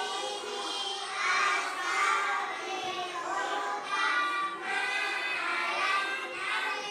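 A group of young children's voices together, overlapping and continuous, with a sing-song quality.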